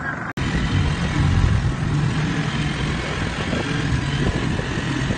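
A small motorcycle-type engine running steadily close by, with street noise.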